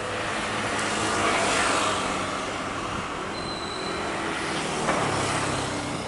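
Road traffic running past a light-rail stop, with one vehicle swelling past about a second in.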